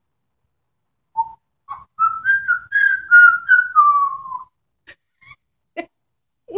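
African grey parrot whistling: a couple of short notes, then a long wavering whistled tone that slides down in pitch and stops, followed by a few faint clicks.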